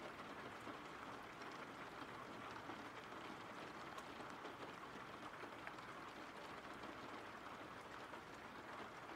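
Steady, faint rain falling, with light scattered drop ticks.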